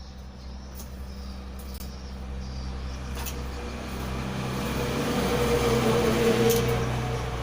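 A motor vehicle passes by, growing steadily louder to a peak about six seconds in and then fading, over a steady low electrical hum.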